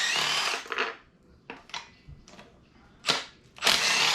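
Metal tools and engine parts being handled during an engine teardown: two clattering, rattling bursts of about a second each, one at the start and one near the end, with a few sharp clicks between them.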